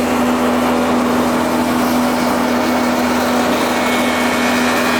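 A steady, loud machine noise: one constant hum over an even hiss, with no change in pitch or rhythm.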